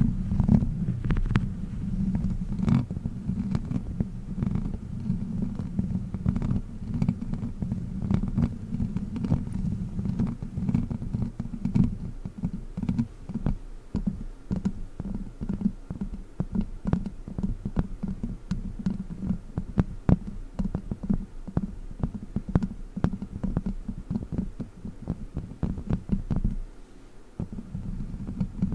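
Plastic witch-finger claw fingertips scratching and tapping on a microphone: a dense low rumble with many quick clicks. The rumble drops away about 27 seconds in, leaving lighter clicks.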